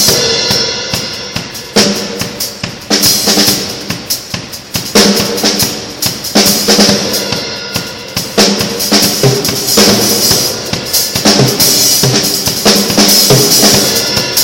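Drum kit being played: a busy groove of bass drum and snare, with loud accents every second or two whose ringing fades away.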